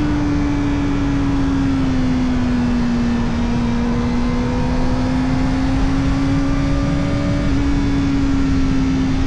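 Kawasaki Ninja ZX-4RR's 399 cc inline-four running through an Arrow Indy Race Evo titanium exhaust with the dB killer fitted, held at steady high revs while riding. The engine note eases down a little early on, then climbs slowly, over a low rush of wind.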